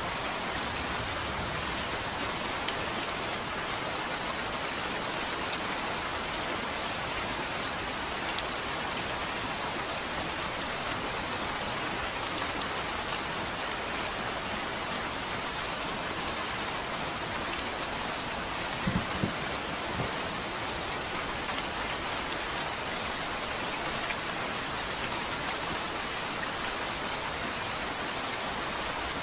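Steady heavy rain falling, a dense even hiss with scattered individual drop ticks, and a brief low thump about two-thirds of the way through.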